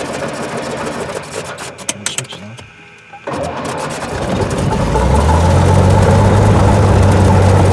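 Cessna 182's piston engine being started: after a short lull it catches about three seconds in and builds within two seconds to a steady, loud run.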